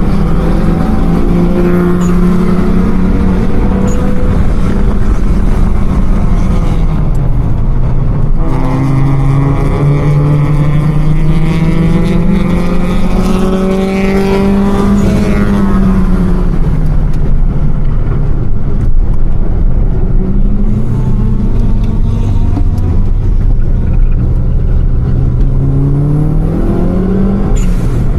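Car engines running, with pitch climbing and falling as they are revved several times, most clearly around the middle and again near the end.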